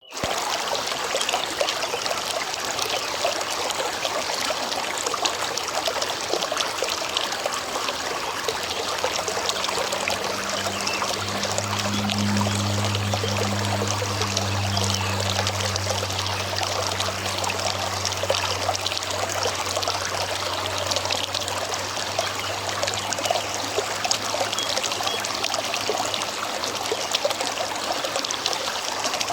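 River water flowing in a steady, even rush. A low hum joins about nine seconds in, is loudest a few seconds later, and fades out a little past twenty seconds.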